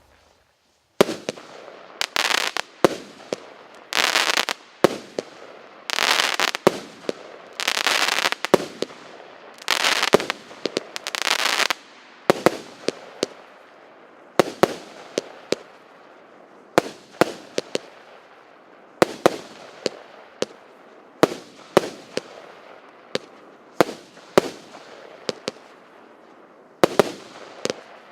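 A 36-shot, 1-inch consumer fireworks cake firing: a string of sharp launch cracks and bangs. In the first half several shots trail off into about a second of rushing noise; later the shots come singly, about one a second.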